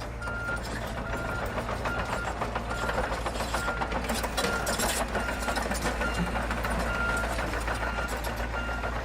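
A heavy vehicle's engine rumbles steadily, with a rattly knock over it, while a reversing alarm beeps over and over, about three beeps every two seconds.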